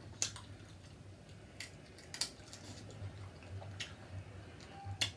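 Close-miked eating sounds from a seafood mukbang: a handful of sharp, separate clicks and smacks, about one a second, over a low steady hum.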